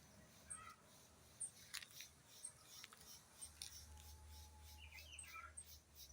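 Faint outdoor birdsong: short high chirps repeating about once a second, with a few lower calls and scattered clicks.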